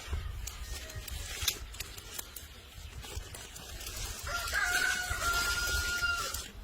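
A rooster crowing once, a long held call of about two seconds starting about four seconds in.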